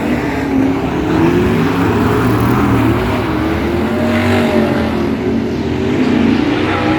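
Several speedway race car engines running hard together, their pitch rising and falling as they accelerate and lift off around the track.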